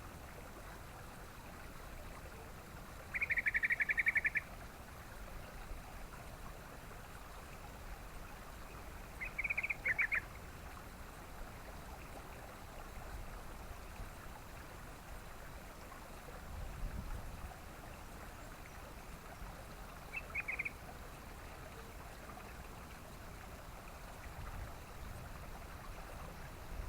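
Yellow-vented bulbul giving three short, rapid chattering calls, about 3, 9 and 20 seconds in, the first the longest and loudest, over a steady faint hiss.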